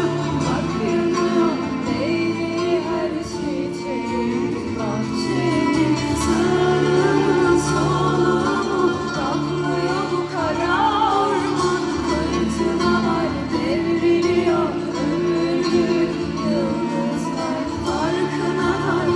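Live performance of a Turkish song with kanun accompaniment: band music carrying a wavering, ornamented melodic line, with singing in it.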